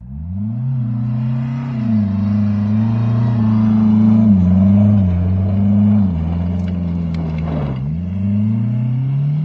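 Mercedes-Benz W124 saloon's engine revving hard and held high while the car slides on snow, its pitch rising at the start, dipping a few times with the throttle and climbing again near the end. The car is being driven hard to test a freshly fitted clutch.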